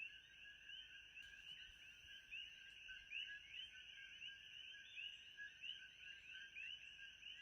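Faint, steady chorus of many small chirping animal calls, overlapping several times a second, with a thin steady high whine above it.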